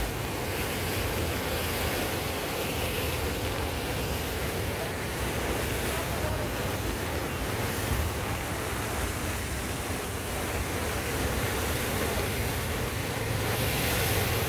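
Dhobi Khola river in flood, its swollen water rushing steadily.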